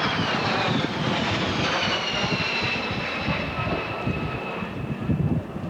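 Boeing 767 twin-engine jet airliner flying past, its turbine whine falling in pitch as it goes by over the roar of the engines, which slowly fades.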